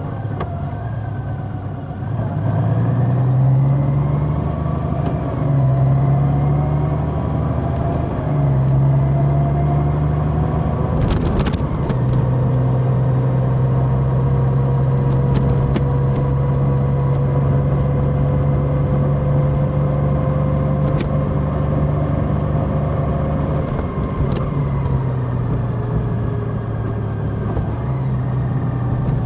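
Large motorcycle's engine pulling up through the gears, its pitch rising in three steps, then holding a steady cruise before easing off near the end, with constant wind and road noise and a few sharp clicks.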